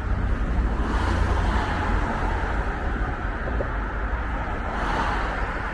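Road traffic noise: a steady low rumble, with vehicles passing, swelling about a second in and again near the end.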